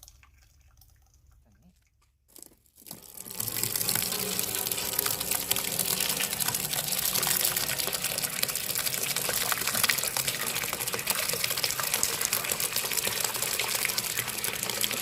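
Liquid pouring in a steady gush that starts about three seconds in: fermented malt (yeotgireum) water with steeped glutinous rice being poured through a strainer.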